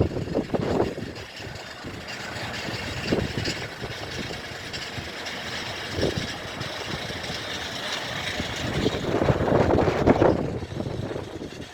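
Jet engines of a Boeing 787-8 Dreamliner just after touchdown as it rolls out down the runway: a steady rushing with a faint high whine, swelling about nine to ten seconds in.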